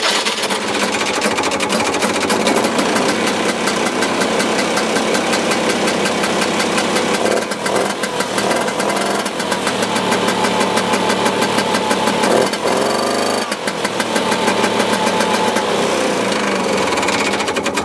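Vintage Ski-Doo Elan snowmobile's small two-stroke Rotax engine running just after an electric start, fast and rattly at idle. It revs up briefly about thirteen seconds in and shuts off at the very end.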